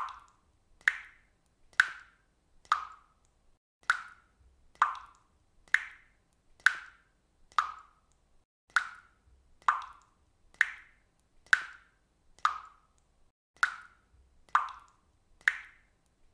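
Faucet dripping water: single drops plopping at a steady pace of about one a second, each with a short ringing tail.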